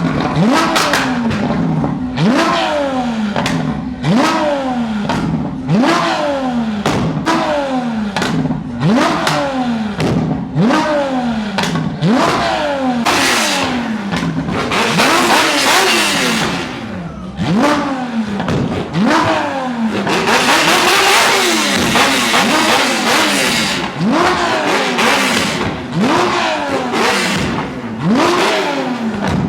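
A car engine being revved again and again in quick blips, its pitch shooting up and falling back about every second and a half. Two longer stretches in the middle are noisier and louder.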